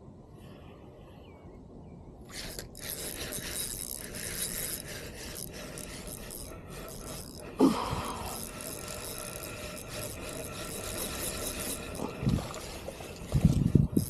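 Fishing reel being cranked, its gears ticking steadily as line is wound in, starting a couple of seconds in. A sudden knock about halfway through and a few thumps near the end.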